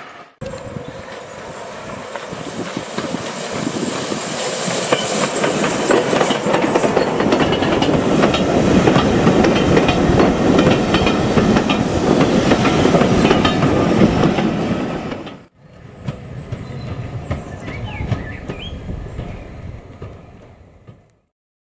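Train of vintage wooden carriages running past close by, wheels clattering over the rail joints and growing louder as it passes. It cuts off suddenly and gives way to a quieter stretch of train sound that fades out near the end.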